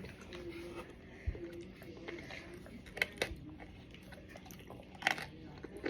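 Close-up biting and chewing of hardened cornstarch, with several sharp crunches.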